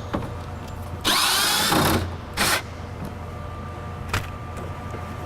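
A cordless power driver spins for about a second, then gives a second short burst, loosening a bolt that holds the window glass to the power window regulator. A light click follows near the end.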